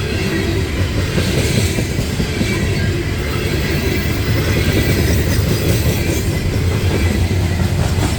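Loaded coal hopper cars of a CSX freight train rolling past at speed: the steady, loud noise of steel wheels on rail.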